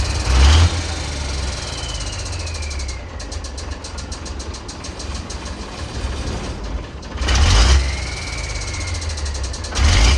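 Turbocharged diesel engine of a Ford D series 1314 truck running, blipped briefly near the start and again about three-quarters through, with the turbo's whistle sliding down in pitch after each blip. A fast, even ticking sounds in the quieter stretch in the middle.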